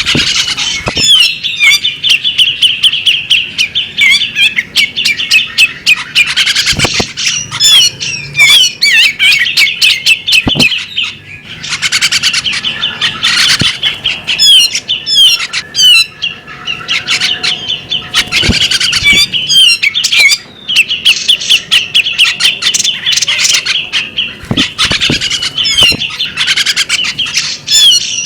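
Female bearded magpie-robin singing a fast, varied song of whistled notes mixed with harsh chattering and sharp ticks, almost without pause, breaking off briefly twice.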